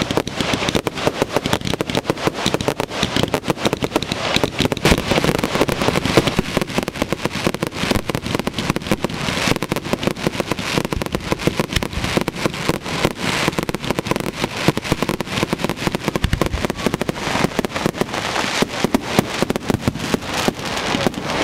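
Fireworks going off in a dense, continuous barrage of rapid bangs and crackles, many per second.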